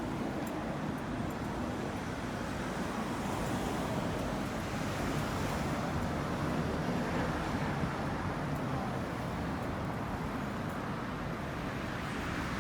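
Road traffic on a city street: a steady noise of passing vehicles that swells a little midway and then eases.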